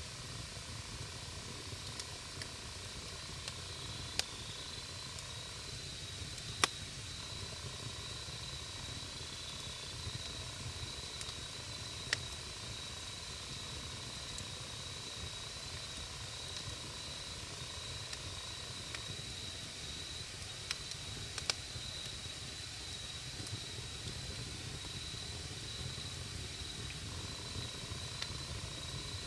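Wood campfire burning with a low steady rumble and a few sharp, scattered pops of crackling wood, the loudest about seven seconds in.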